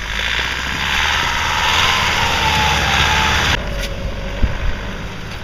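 Vehicle engine revved hard, with a slowly falling whine, as the vehicle reverses to get out of snow; the loud part stops abruptly about two-thirds of the way in, leaving a lower rumble.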